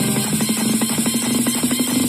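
Electronic dance music with a steady beat, played through a JBL Flip 3 portable Bluetooth speaker.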